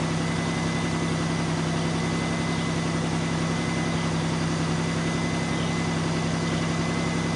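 Van engine idling steadily, warmed up to temperature, with an even low hum.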